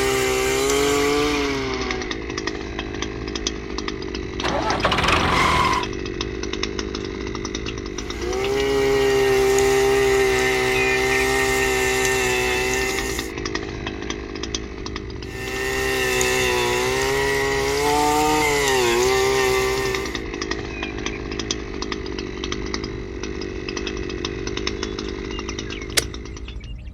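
A small motor whining in several stretches, its pitch dipping and recovering as if under load.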